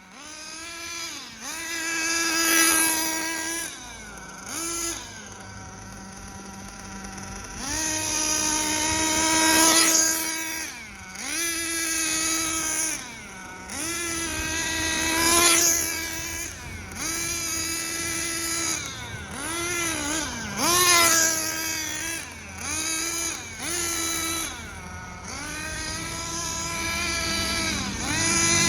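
Hobao Hyper VS nitro RC buggy's small glow engine running through its break-in, revving up and down: a high buzzing note held for a second or more, then dipping as the throttle is let off and climbing again, over and over.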